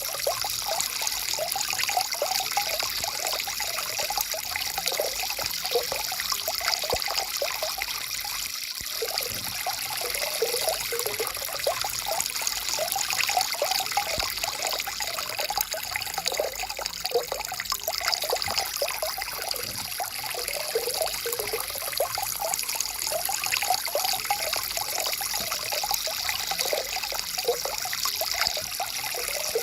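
Small stream flowing steadily, with a constant burbling of many quick gurgles over a hiss of running water.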